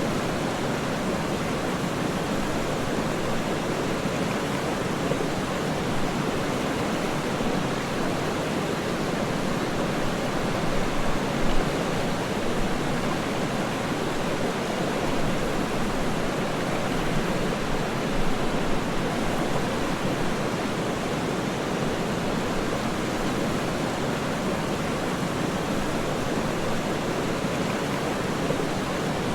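Waterfall rushing steadily: a deep, even wash of falling water, with a couple of slightly louder surges near the middle.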